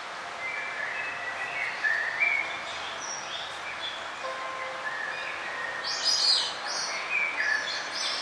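Songbirds chirping in short, high, overlapping notes over a steady background hiss, with the loudest burst of high chirps about six seconds in.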